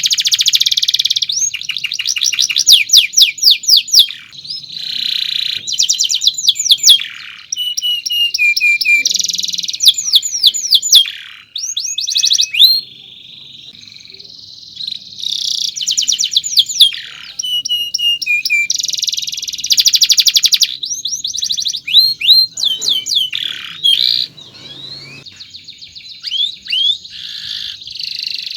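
Domestic canary singing: long runs of rapid, repeated high chirps and trills, with a softer stretch about halfway through.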